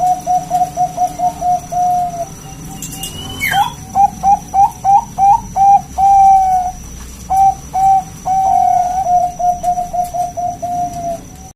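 Zebra dove (perkutut) cooing. Runs of quick, short coo notes, each run ending in a longer drawn-out note, repeated through the clip as a lure call to draw other doves to answer.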